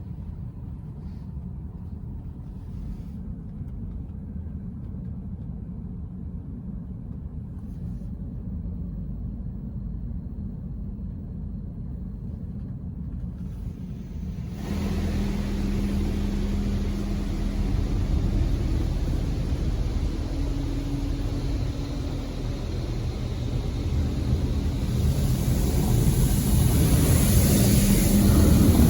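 PDQ LaserWash 360 touchless car wash: a low steady rumble, then about halfway through a pump starts with a steady hum and water spray hits the car, getting louder toward the end with a rising hiss.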